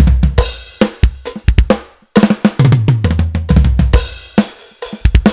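Acoustic drum kit playing a groove into a triplet-feel fill: right and left hands strike the snare and floor tom together, with a bass drum kick between each unison hit. The playing stops briefly about two seconds in, then starts again.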